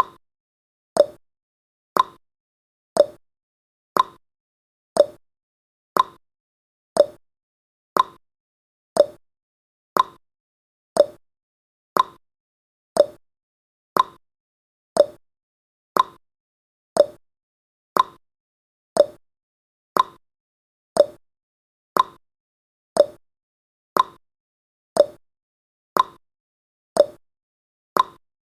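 Clock-tick sound effect: one sharp tick every second, alternating higher and lower in pitch like a tick-tock, counting down the seconds.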